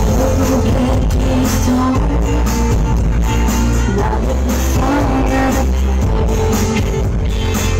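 Pop music with singing and a heavy, continuous deep bass, played loud through a high-power sound system (a 'paredão de som' sound wall).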